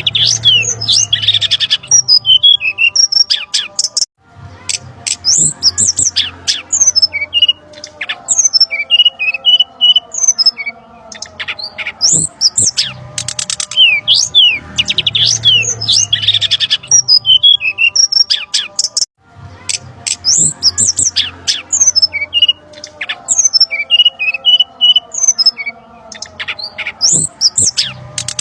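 Looped bird-lure recording of brown-chested jungle flycatcher calls: rapid, agitated chirps and sweeping whistles packed closely together. The loop repeats about every 15 seconds, with a brief break about 4 seconds in and again near 19 seconds.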